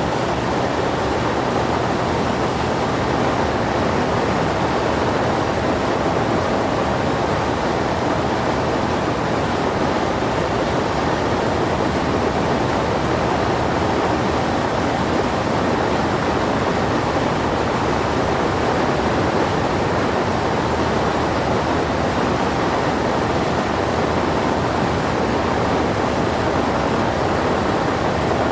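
Steady cabin noise of a Zenith CH 750 Super Duty in flight: its Lycoming IO-375 four-cylinder engine and propeller running at a constant power setting under a heavy rush of air, heard from inside the cockpit.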